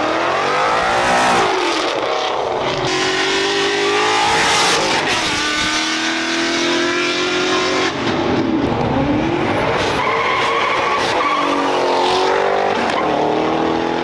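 Car engine revving hard, its pitch rising and falling several times, over continuous tyre noise, as in a burnout.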